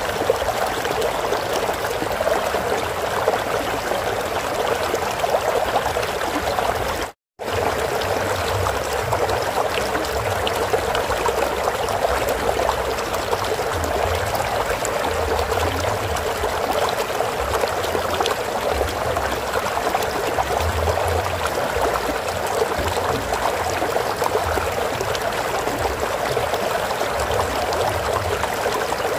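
Flowing stream water, a steady rushing and trickling. It cuts out completely for a moment about seven seconds in.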